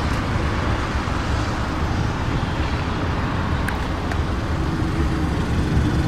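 Steady low rumbling background noise, like road traffic, with a couple of faint clicks in the middle.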